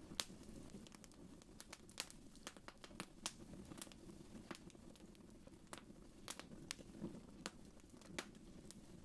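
Wood fire crackling in a fireplace: irregular sharp pops and snaps, a few a second, over a soft low rumble.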